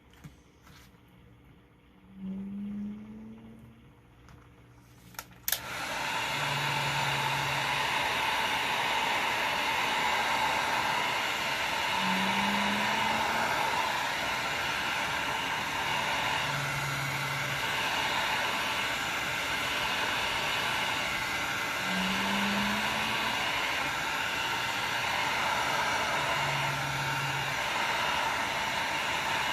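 Electric heat gun switched on with a click about five seconds in, then blowing steadily. A low hum sounds briefly near the start, and a faint low two-note tone comes back about every ten seconds under the blowing.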